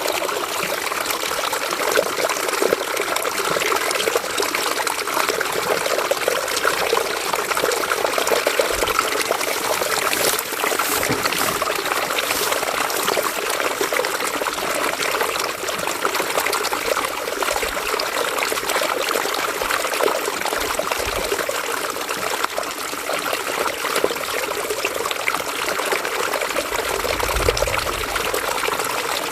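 River water flowing and splashing steadily over rocks, with a few faint low thuds underneath, the clearest near the end.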